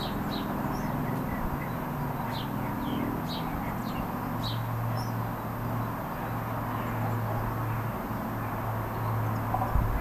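Small birds chirping in short, high, falling notes, several in the first half and fewer later, over steady wind noise on the microphone. A low steady hum joins about four seconds in.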